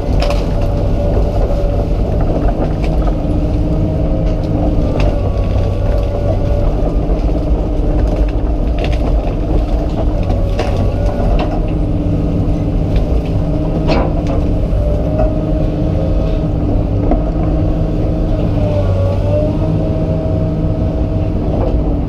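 Komatsu PC200 excavator's diesel engine and hydraulics running under load while dragging a felled tree, with a hum that shifts in pitch every few seconds. A few sharp cracks or knocks are heard, around a third, half and two-thirds of the way through.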